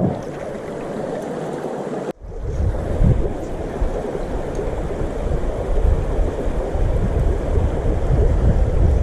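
Running stream water, with wind buffeting the camera microphone as a heavy low rumble after a brief drop-out about two seconds in.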